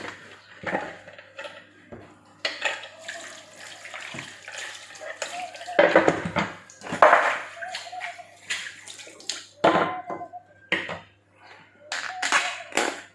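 Water running and splashing in a kitchen sink, coming in uneven bursts as something is rinsed under the tap.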